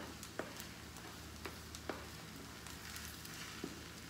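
Eggs frying faintly in a wok of rice while a spatula stirs and scrambles them, with several light clicks of the spatula against the pan.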